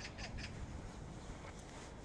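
A bird's rapid run of short, harsh calls, about five a second, ending about half a second in, over a steady low rumble.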